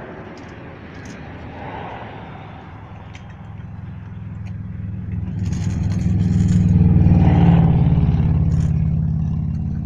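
A car driving past, its engine growing louder to a peak about two-thirds of the way through and then fading away.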